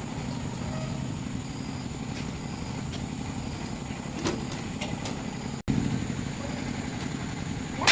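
An engine running steadily at idle, with a few faint clicks. The sound cuts out completely for an instant about two-thirds of the way through.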